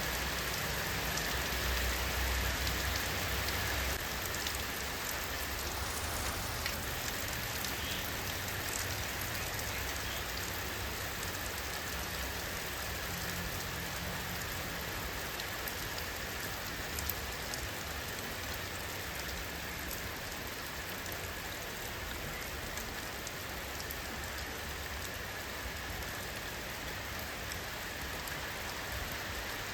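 Steady rain falling, a dense even hiss sprinkled with small drop taps on a surface. A low rumble underneath is stronger for the first few seconds.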